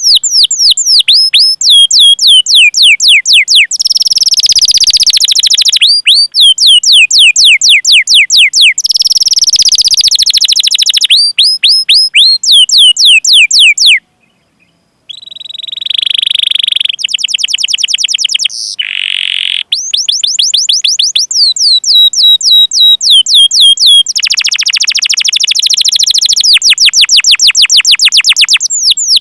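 Domestic canary singing loud, rapidly repeated downward-sweeping 'cuit cuit' call notes, broken up by fast rolling trills ('ngerol'), with a brief break about halfway.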